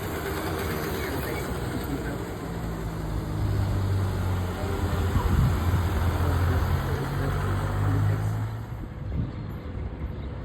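A TGV high-speed train running, heard from inside the carriage: a steady rumble with a low hum, growing quieter about eight and a half seconds in.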